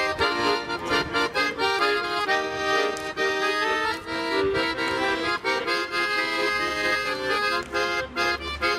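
Accordion playing the instrumental introduction to a song, a melody over sustained chords.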